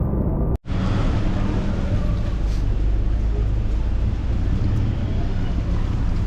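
Riding on a motorcycle: wind rushes over the microphone over a steady, low engine and road rumble. The sound cuts out for an instant about half a second in.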